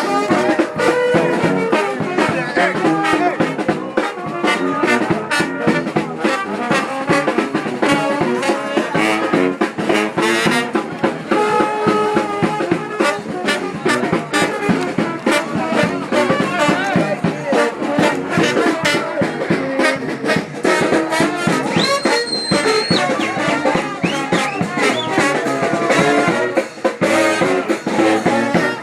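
New Orleans brass band playing: trumpets and trombones over a steady drumbeat. A short high steady tone, like a whistle, sounds for about a second about two-thirds of the way through.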